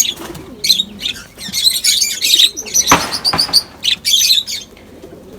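Lovebirds chirping in quick, shrill bursts, with one sharp knock about three seconds in.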